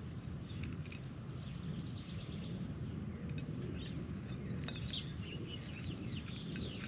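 Birds chirping with many short, quick calls, some gliding in pitch, busier in the second half, over a steady low background rumble.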